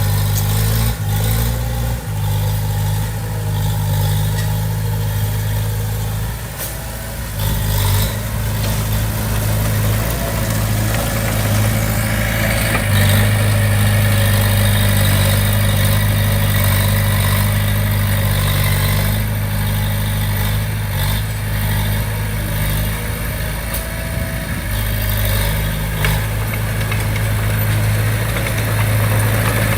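Small crawler bulldozer's diesel engine running at a steady pitch, with a few knocks in the first several seconds and a louder stretch from a little under halfway on.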